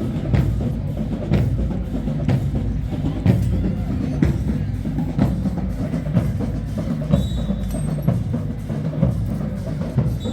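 Marching band drumline playing a cadence, with bass drums and sharp snare or rim strikes on a steady beat of about two a second.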